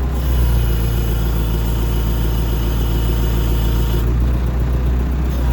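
Backhoe engine running steadily with a deep hum. Over it, a high whining hiss runs for about the first four seconds and then cuts off suddenly.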